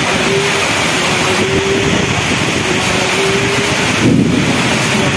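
Heavy rainstorm with strong wind: a loud, steady rushing of rain and wind, with a brief low rumble about four seconds in.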